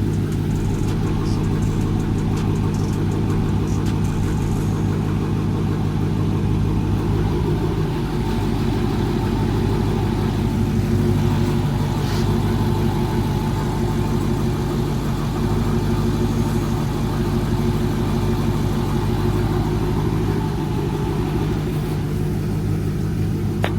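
Supercharged 6.2-litre Hemi V8 of a Dodge Charger Hellcat Redeye idling steadily, a warm-up idle.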